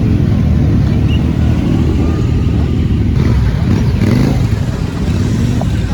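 Motorcycle engine running under way, with dense road and wind rumble; the pitch of the engine rises and falls briefly about four seconds in.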